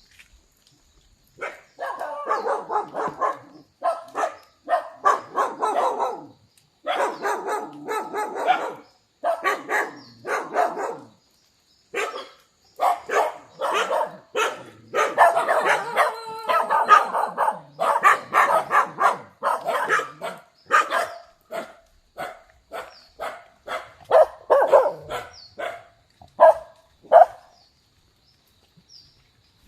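A dog barking over and over in quick runs of barks, starting about a second and a half in and thinning out near the end.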